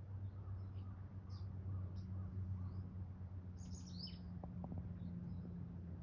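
Small birds chirping in short, scattered calls, with a louder burst ending in a falling call about three and a half seconds in, over a steady low hum.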